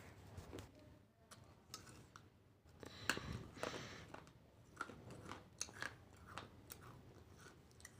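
Faint chewing and crunching of food, a series of small irregular crunches and clicks that grows denser and louder about three seconds in.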